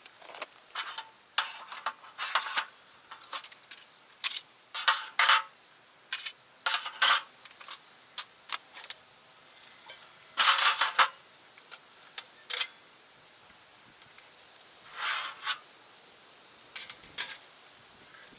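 Metal cookware and camp-stove gear being handled: an irregular string of short clinks, knocks and rattles, with longer clattering rattles about ten and fifteen seconds in.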